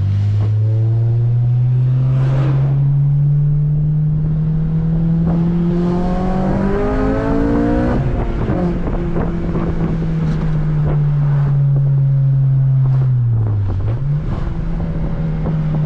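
Honda Civic Si's 2.0-litre i-VTEC four-cylinder engine pulling under acceleration, its pitch rising steadily for about eight seconds, then easing off to a steady cruising pitch, with a brief dip and recovery near the end.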